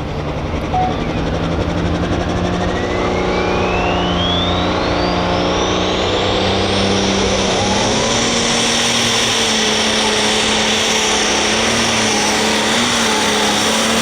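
Super stock pulling tractor's turbocharged diesel engine running at full power under load, with a high whine climbing steadily in pitch over the first several seconds and the engine note stepping up about eight seconds in.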